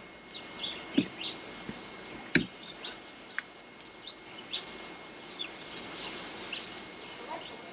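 Small birds chirping in short, scattered calls. Two sharp knocks sound about one second and two and a half seconds in.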